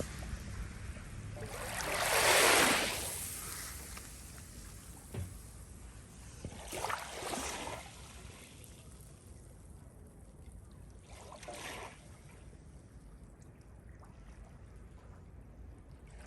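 Water washing in, in three swells a few seconds apart that rise and fall; the first is the loudest, with a faint steady wash between them.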